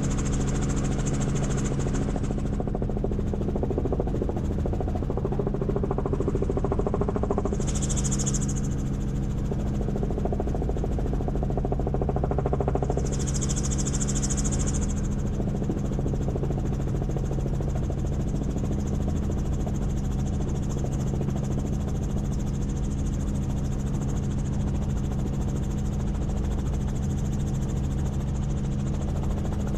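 Helicopter in flight: a steady drone of engine and rotor with constant low tones. A brief hiss comes twice, about eight and fourteen seconds in.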